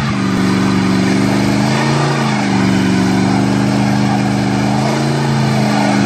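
A car engine running steadily at low revs, its pitch lifting slightly twice, about two seconds in and again around five seconds.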